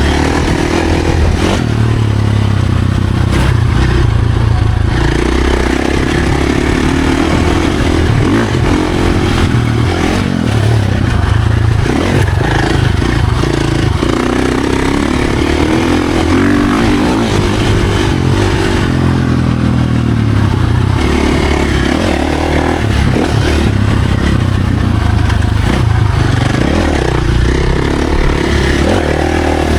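Dirt bike engine running hard on a trail ride, its pitch rising and falling every few seconds as the throttle opens and closes, with rattling and rushing noise.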